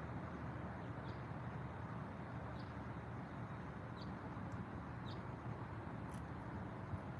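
About five short, high bird chirps, spaced a second or so apart, over a steady low background rumble and hiss.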